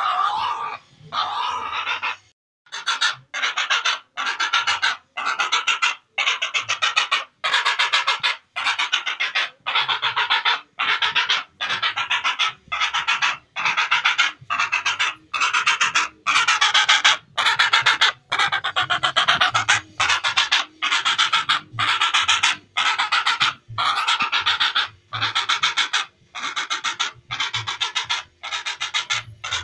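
Heron giving harsh, rasping calls over and over at an even pace, about one every three-quarters of a second.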